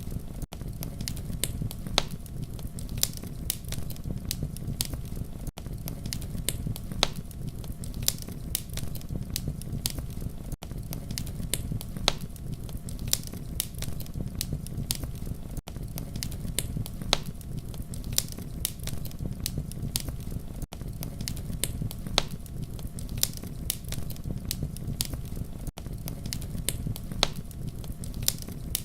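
Campfire crackling steadily: a low rumble of burning with many sharp pops and snaps. Brief dropouts about every five seconds mark it as a looped recording.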